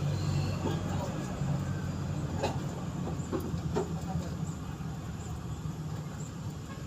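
A vehicle engine running steadily with a low hum, with a few light clicks two to four seconds in.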